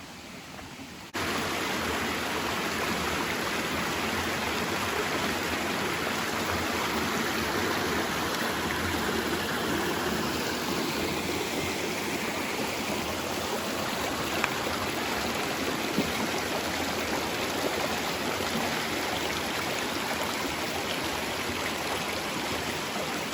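Rushing creek water pouring over small cascades, a steady rush that starts abruptly about a second in, over a quieter, fainter water sound before it.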